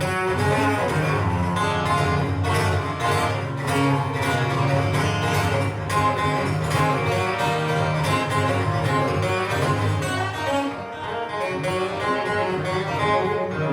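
Live band playing an instrumental passage led by guitar, with a bass line underneath and a steady beat.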